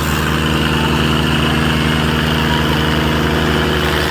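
Tractor diesel engine running steadily at low speed with an even, regular beat.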